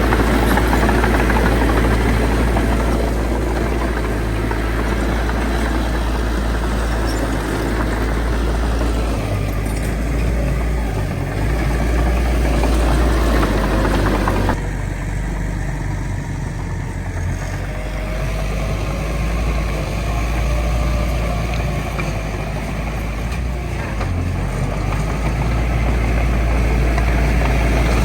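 Heavy diesel earthmoving machinery running steadily with a deep rumble, its sound changing abruptly about halfway through.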